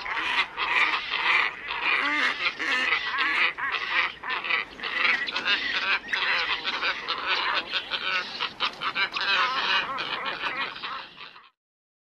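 Recording of black ibis calling: a flock's dense chorus of many overlapping calls, played as a bird-lure call. It cuts off abruptly near the end.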